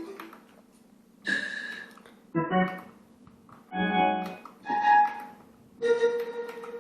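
Roland D-50 synthesizer playing its factory preset sounds: about five short chords struck one after another with brief pauses between them.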